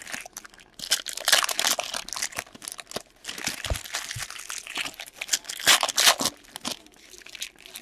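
Plastic trading-card pack wrappers being torn open and crinkled by hand, in several irregular bursts, with a light knock about three and a half seconds in.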